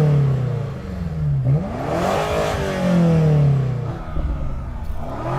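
BMW M5's twin-turbo V8 being revved while stationary: two blips that rise and fall back to idle, with a third starting near the end.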